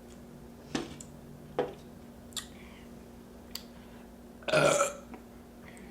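A few short sharp clicks, then one loud burp about four and a half seconds in.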